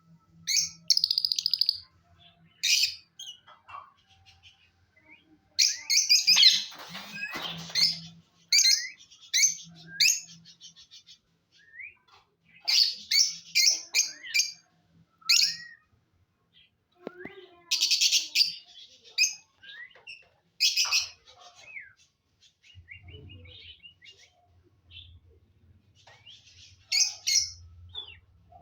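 Indian ringneck parakeet calling: bursts of short, shrill screeches and chirps in clusters, with pauses of a second or more between them.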